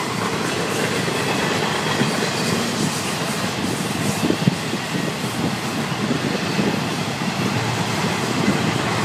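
Florida East Coast Railway freight train's enclosed auto-rack cars rolling past at close range: a steady rumble of steel wheels on rail with a scattered clatter of wheel knocks.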